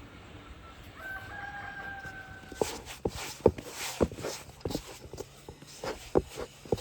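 A rooster crowing once, a single held call of about a second and a half. After it come irregular sharp clicks and knocks, the loudest sounds, running to the end.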